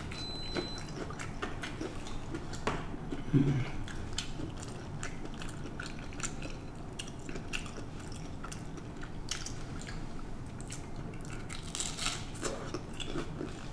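Close-miked biting and chewing of deep-fried breaded scallops: a steady run of crisp little crunching clicks and wet mouth sounds, with a brief low hum about three seconds in.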